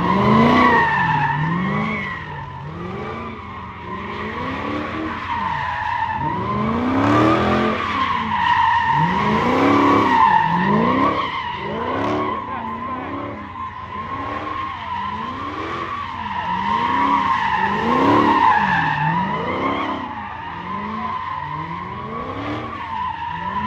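A car doing donuts or burnouts: the tyres squeal steadily while the engine revs up and falls back over and over, about once a second.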